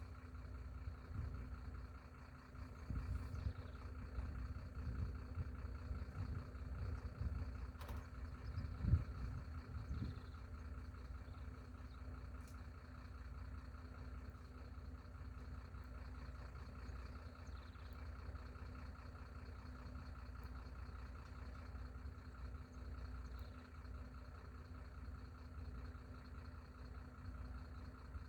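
An engine running steadily with a low rumble, somewhat uneven with a brief louder surge about nine seconds in, then holding even.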